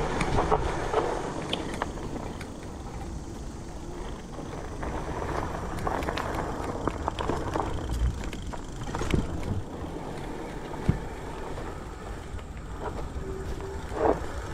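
Fat-tyre electric bike ridden over a rough dirt trail: a steady rumble of tyres on the ground, broken by scattered knocks and rattles as it goes over bumps.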